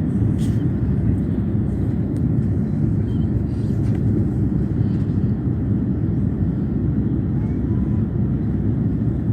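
Steady low rumble of a distant jet airliner, mixed with wind buffeting the microphone.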